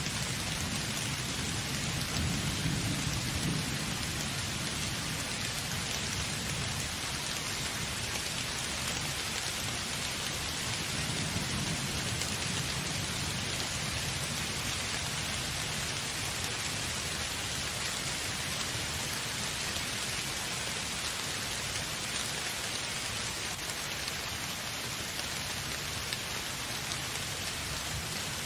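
Heavy steady rain hissing on surfaces, with low rolling thunder that swells near the start and again about eleven seconds in.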